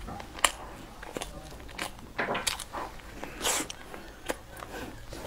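Close-miked chewing of a baked cookie: irregular wet mouth clicks and soft crunches, with a sharp click about half a second in.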